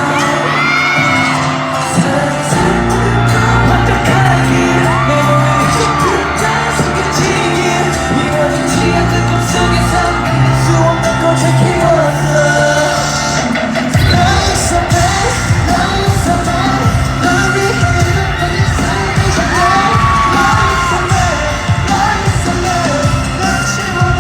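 Live K-pop music over a stadium sound system, recorded from the crowd, with singing and fans yelling. A heavy bass beat kicks in about fourteen seconds in.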